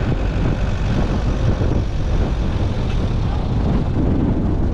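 Steady road and engine noise of a car driving, heard from inside the moving vehicle, with heavy low rumble.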